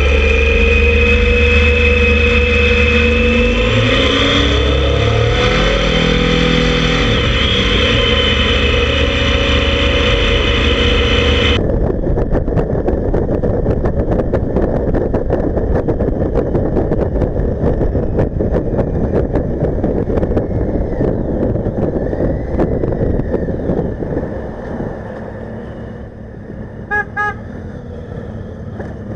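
Motorcycle engines running with their pitch rising and falling as they rev. After an abrupt cut comes riding noise: wind buffeting the action camera microphone over the engine rumble. A horn gives two short toots near the end.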